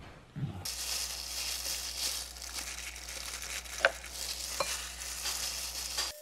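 Steady sizzling hiss of food frying in a pan, with a low hum underneath, starting suddenly under a second in. Two light taps come around the middle as rice balls are set into a plastic lunch box.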